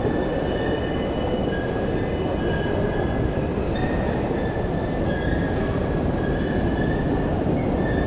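A train running in the station with a steady rumble, its wheels squealing on the rails in high tones that come and go.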